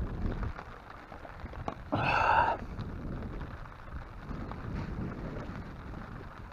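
Steady rain and wind noise in a thunderstorm, with one brief pitched sound, about half a second long, about two seconds in.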